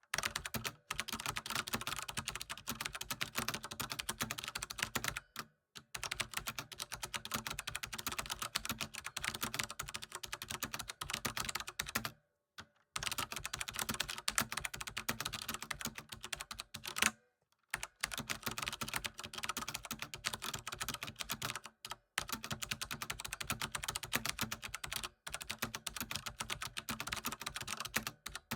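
Fast, continuous typing on a computer keyboard: dense runs of rapid key clicks, broken by a few brief pauses.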